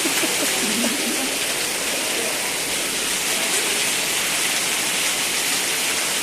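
Steady hiss of heavy falling water, unbroken throughout.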